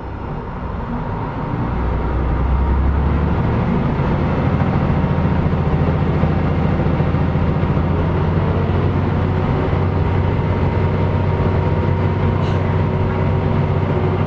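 KiHa 125 diesel railcar's engine revving up over the first few seconds as it takes power, then running steadily under load.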